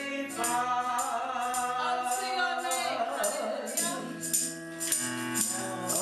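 Gospel worship song sung by a group of voices with band accompaniment, the word "sacrifice" drawn out over several seconds. Jingling percussion keeps a steady beat throughout.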